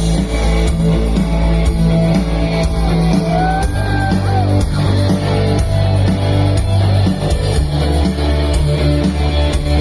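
Live rock band playing an instrumental passage of the song, with electric guitar over bass and drums. A lead note bends in pitch a little over three seconds in.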